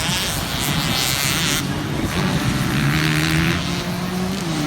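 Dirt bike engine revving, its pitch rising and falling with the throttle, with surges of hiss twice.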